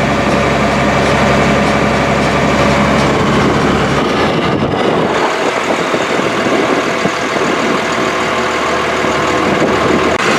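Old Caterpillar heavy-equipment diesel engine running steadily, its low rumble dropping away about four seconds in.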